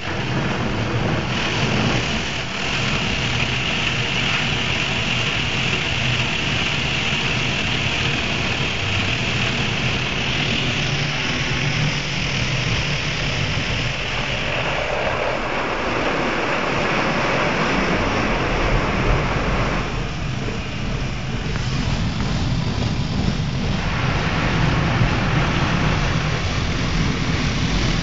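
Automatic car wash running over the car, a steady loud rush of spraying water heard from inside the car. The rush eases in the middle frequencies about twenty seconds in and comes back near the end.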